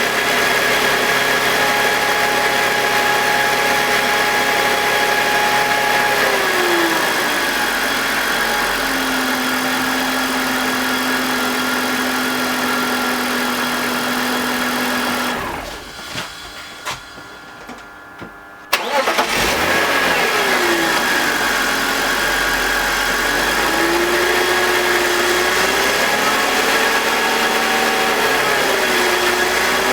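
BMW E46's M52TUB25 2.5-litre inline-six idling, its idle speed dropping and settling, then the engine is switched off, a few clicks sound, and it restarts with the idle flaring and settling again. It is running with one VANOS solenoid unplugged, and no VANOS grinding is present in this state.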